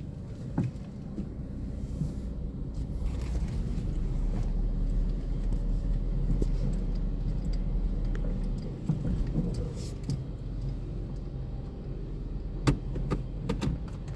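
Car engine idling with a steady low rumble, and a few sharp clicks or knocks near the end.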